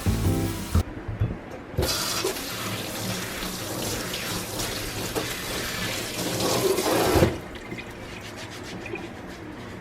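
Water running in a steady stream, which stops abruptly about seven seconds in.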